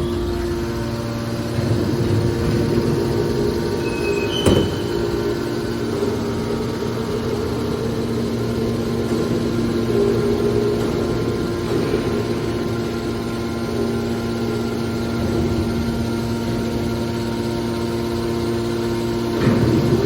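Hydraulic scrap-metal baler running with a steady hum, with a sharp clank about four and a half seconds in and another near the end.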